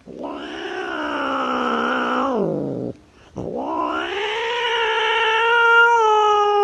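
A cat yowling: two long, drawn-out yowls, each ending with a drop in pitch.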